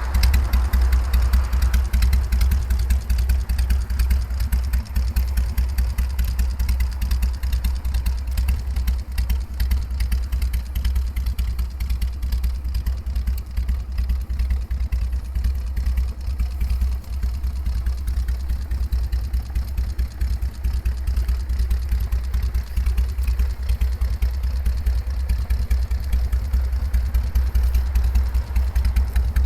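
Harley-Davidson Sportster 883R's air-cooled V-twin idling steadily through an aftermarket cone-type muffler, a deep, even exhaust rumble.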